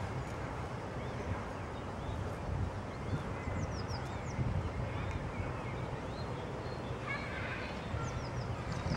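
Scattered thin, high bird peeps and chirps over a steady low rumble of wind on the microphone, with a busier burst of calls about seven seconds in.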